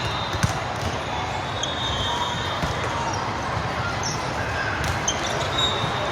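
Game sounds on an indoor hard court: a ball bouncing with scattered sharp knocks, over a steady background of spectator chatter.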